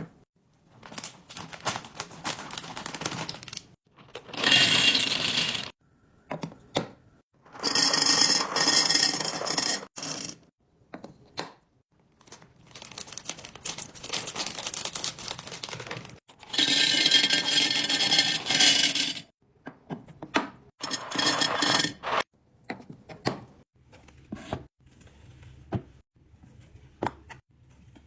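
Restocking and organizing noises in a string of separate bursts: small items clinking, scraping and knocking as they are handled and set into place.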